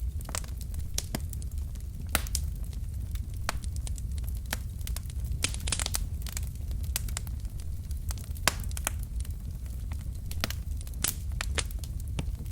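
Wood fire crackling: irregular sharp pops and snaps from the burning logs, with a quick flurry of them about halfway through, over a steady low background noise.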